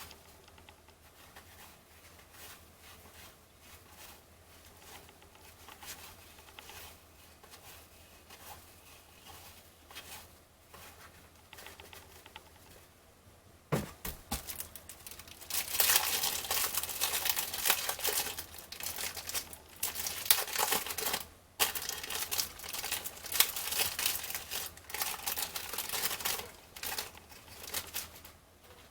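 Faint clicks and rustles for about fourteen seconds, then the cellophane wrapper of a trading-card cello pack being torn open and crinkled, loud and continuous for about twelve seconds.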